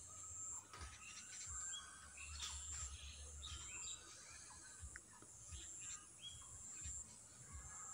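Faint background ambience: short, separate bird chirps over a steady high-pitched insect drone that comes and goes.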